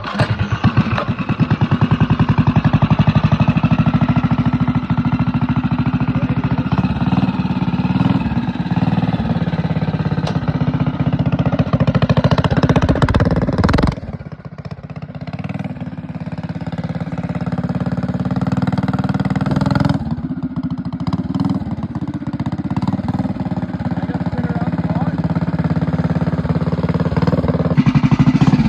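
A mini bike's small single-cylinder engine, fitted with a hot cam and choked, catches on the pull and runs with an even firing beat. About 14 seconds in its sound drops suddenly, then climbs back up and keeps running.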